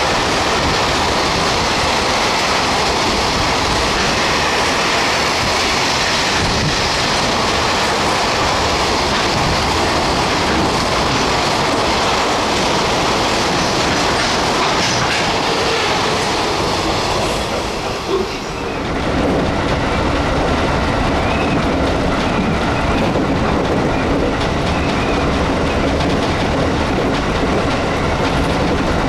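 Train running on the Musashino Line with a continuous loud running noise of wheels on rails. About two-thirds of the way through, the high hiss drops away and a lower steady rumble continues.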